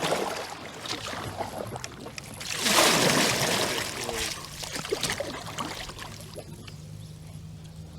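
Water splashing and dribbling around a kayak being moved across the water, with small knocks and a louder rushing splash about three seconds in.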